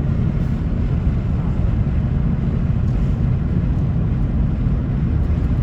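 Steady low road and engine rumble of a car cruising at highway speed, heard from inside the cabin.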